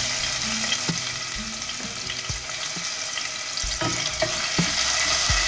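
Chopped ginger, garlic and green chillies sizzling in hot oil in a stainless steel pot. A wooden spatula stirs them, with a few light knocks against the pot.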